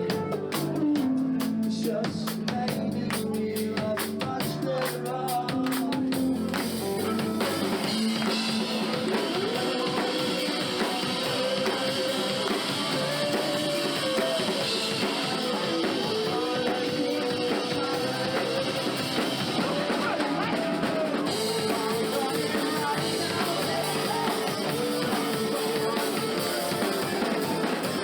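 Rock band playing live, with drum kit and guitar. Hard, dense drum hits for the first six seconds or so give way to a held melody line carried over a steady cymbal wash.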